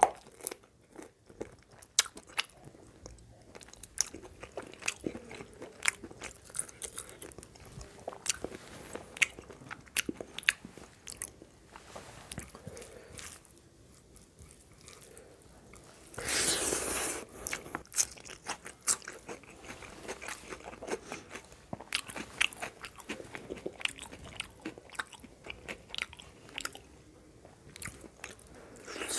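Close-up eating sounds of a person eating curry and rice by hand: chewing, lip smacks and crunchy bites as many short sharp clicks. A louder, noisier burst lasts about a second and a half midway.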